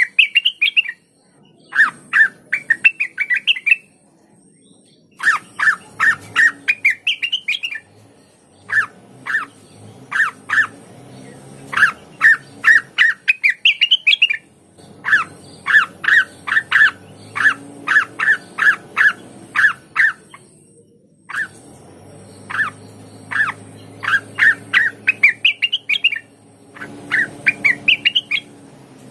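A blue-winged leafbird (cucak wilis) singing: rapid phrases of short, sharp notes, many climbing in pitch, broken by pauses of about a second.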